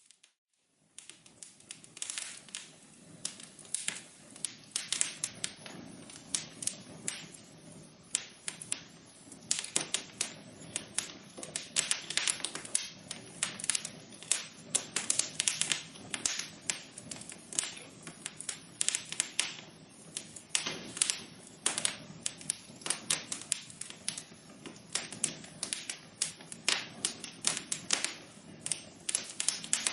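Wood fire burning in a fireplace, crackling with dense, irregular snaps and pops over a low steady hiss of flame. The sound drops out briefly at the very start, then resumes.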